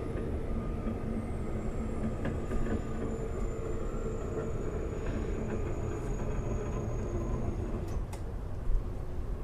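Steady mechanical hum with a low rumble and a faint high whistle, with a few faint clicks.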